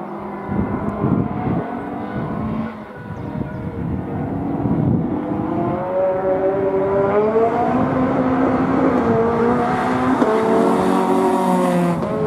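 Hill-climb race car engine at full throttle, its pitch climbing and dropping back in steps as it shifts up through the gears, growing louder over the first few seconds as the car comes closer.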